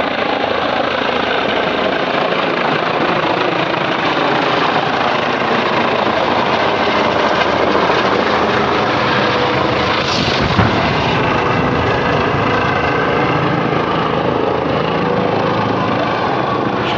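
Helicopter running close by, a loud steady wash of rotor and engine noise, with one brief knock about ten seconds in.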